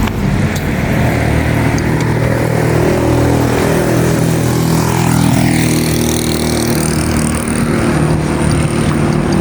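Motor vehicle engine running close by, its pitch shifting up and down a little, over steady street noise.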